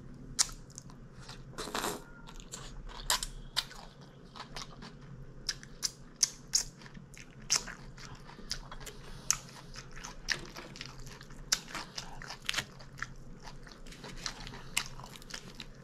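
A person chewing and biting food close to the microphone, with irregular sharp mouth clicks, about two or three a second, and a longer burst of chewing about two seconds in.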